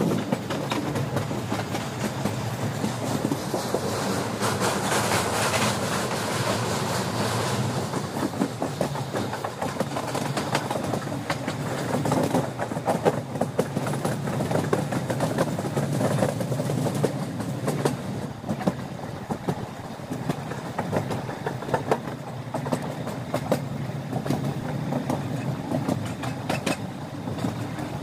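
Moving train's running noise heard from on board: a steady rumble with irregular clickety-clack of wheels over rail joints.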